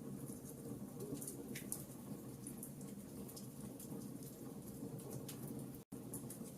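Wood fire crackling, with frequent small sharp pops over a steady low rustle. The sound drops out completely for an instant a little before the end.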